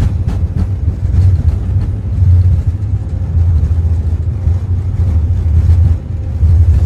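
Steady low rumble heard inside an Airbus A350 cockpit as the airliner rolls out and slows on the runway after touchdown, with a few faint knocks in the first second.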